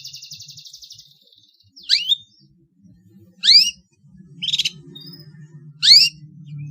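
Long-tailed shrike (pentet) singing a mimicry-filled song: a fast high trill, then loud whistled notes that sweep sharply in pitch, repeated three times at spaced intervals. A faint low hum runs underneath in the second half.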